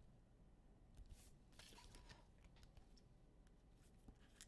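Near silence, broken by a few faint rustles and light clicks of trading cards being handled.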